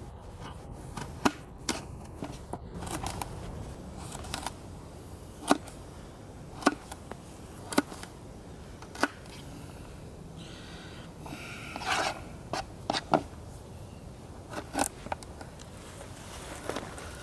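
Sharp clicks and knocks at irregular intervals, about a dozen in all, with a short scraping sound around the middle.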